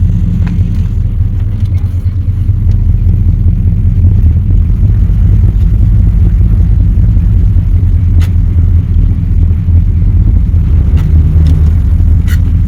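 An engine running at low speed: a steady low rumble that grows louder about two seconds in.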